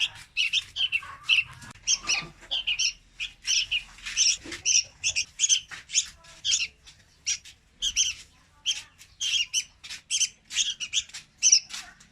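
Young red-whiskered bulbuls calling: a rapid, continuous series of short, high-pitched calls, several a second.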